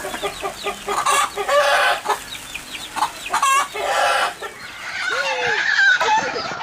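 A mother hen clucking and giving several loud, harsh calls, while her chicks peep in short high chirps throughout.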